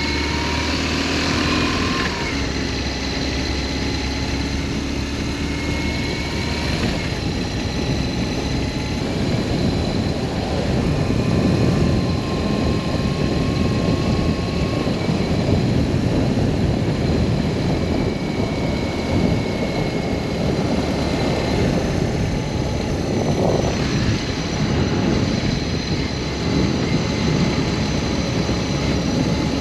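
BMW R1200S boxer-twin motorcycle engine running at a steady cruise, mixed with a heavy rush of wind and road noise. The engine pitch drifts slowly up and down.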